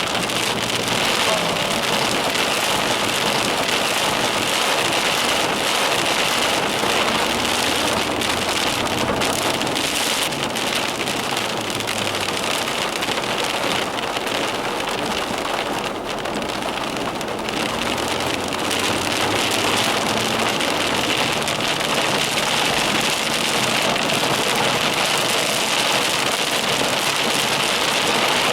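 Heavy thunderstorm rain falling steadily, a dense, even hiss that does not let up.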